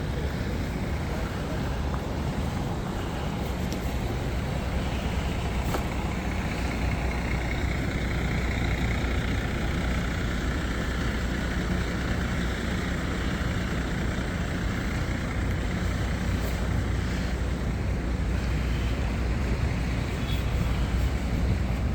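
Steady low rumble of street traffic, with a heavy vehicle's engine running close by.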